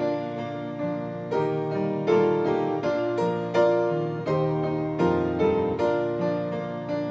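Piano playing a hymn tune in full chords at a steady, moderate pace, each chord struck and then dying away.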